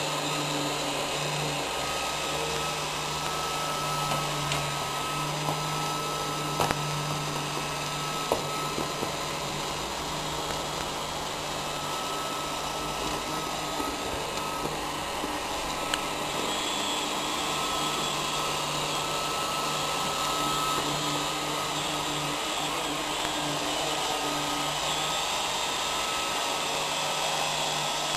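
Roomba robot vacuum running with a steady motor hum and whir, with a couple of sharp clicks around six to eight seconds in.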